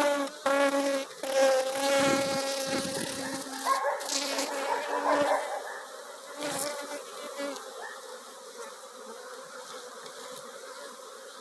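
Honeybees buzzing close by as a steady, pitched hum, loud for the first few seconds and then fainter. A couple of short knocks come through about four and six and a half seconds in.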